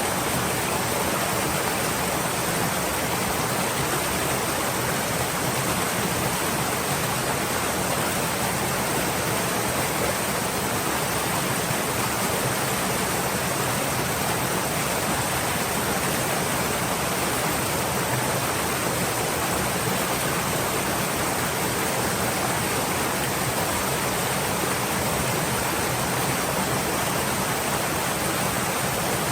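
Stream water flowing in a steady, even rush with no breaks or separate splashes.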